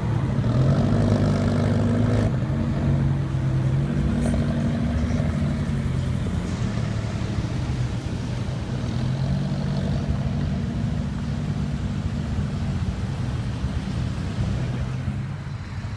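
Car engine running at low revs: a steady low drone whose pitch steps up and down slightly a few times.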